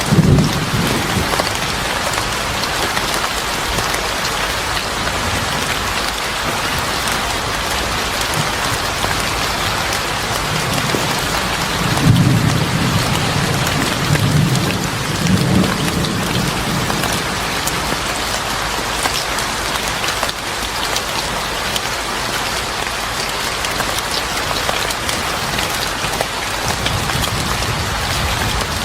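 Steady heavy rain falling, with low rumbles of thunder: one at the very start and a longer roll from about twelve to sixteen seconds in, loudest about twelve seconds in.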